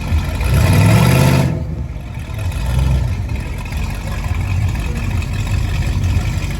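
Car engine running, revved once about half a second in, then settling back to a steady low idle.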